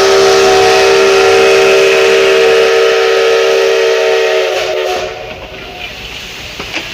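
A locomotive's whistle blows one long, steady chord of several notes, fading out about five seconds in. Quieter rail noise with a few short knocks follows.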